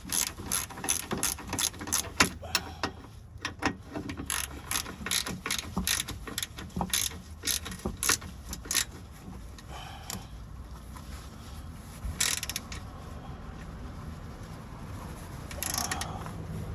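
Hand ratchet wrench clicking in quick, repeated strokes, about three clicks a second, as starter bolts are run in by hand. The ratcheting stops about nine seconds in, leaving a few scattered knocks of tool on metal.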